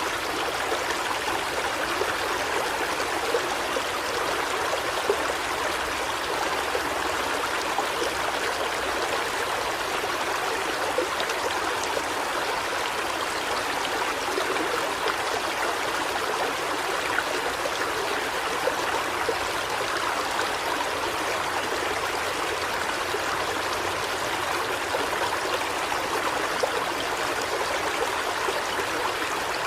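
River water flowing steadily, an even, continuous rush with no break or change.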